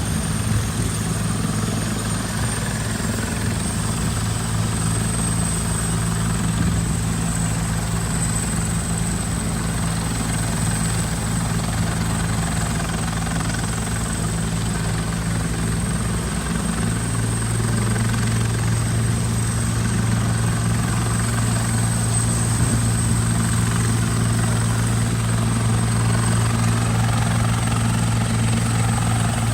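Helicopter running steadily, with a deep rotor and engine tone and a thin high whine over it. About halfway through the low tone steps up and grows stronger.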